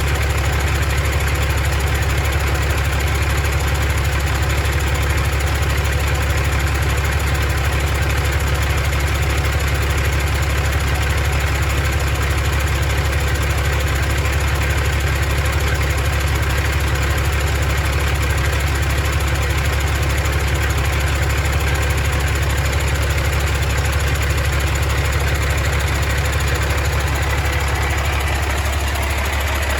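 Caterpillar C13 inline-six diesel engine idling steadily. Near the end its pitch starts to drop as the engine slows.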